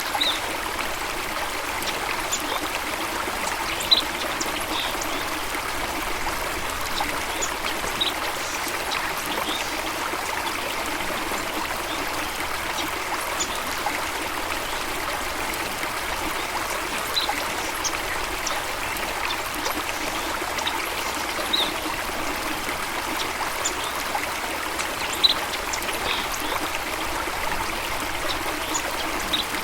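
Running water, a steady rush and trickle throughout. Short, high bird chirps come through it every few seconds, the two clearest about 4 seconds in and near the end.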